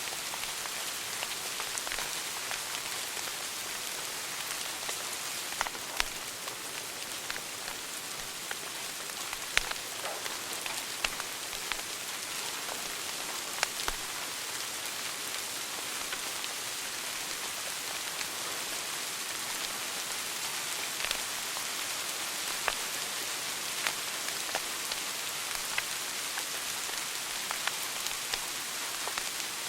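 Wood fire burning in a fireplace: a steady hiss with frequent small crackles and a few louder pops.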